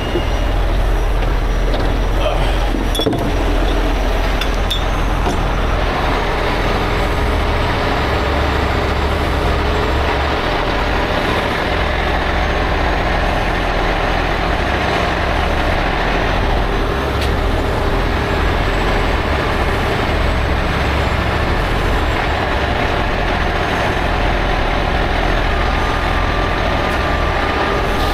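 Heavy tow truck's diesel engine running steadily close by, with a few metallic clinks about three and five seconds in.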